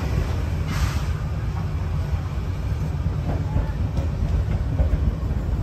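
Passenger carriages of a heritage steam train rolling slowly past, a steady low rumble with a few faint knocks from the running gear.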